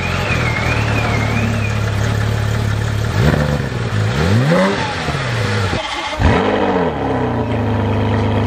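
Porsche 911 GT3 RS flat-six idling and blipped twice, each rev rising and falling. About six seconds in, a Ferrari 599 GTB's V12 fires up with a rev flare and settles into a steady idle.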